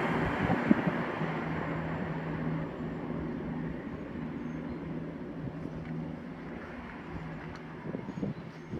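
CrossCountry diesel multiple-unit train running away into the distance, a steady engine drone under the rumble as the sound fades.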